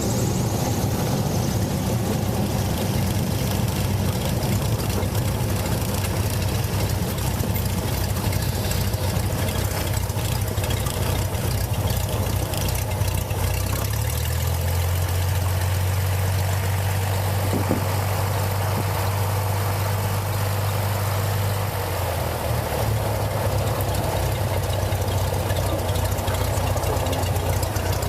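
Cessna 182's piston engine running at low power, a steady low drone. Its pitch shifts about halfway through and again near the three-quarter mark.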